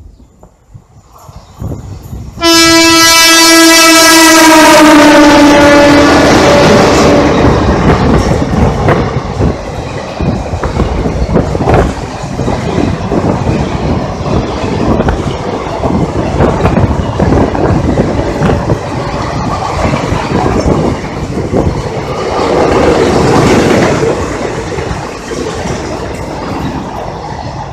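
WAP-4 electric locomotive's horn sounding one long, loud blast a couple of seconds in, its pitch dropping as the locomotive passes. Then the express coaches rattle past with a continuous clickety-clack of wheels on the track.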